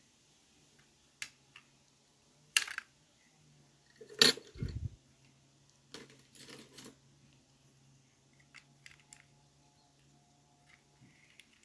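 Scattered small clicks and taps of plastic parts as a DT830D digital multimeter's circuit board is unclipped from the locking tab in its case, with a louder knock and a short dull thud about four seconds in.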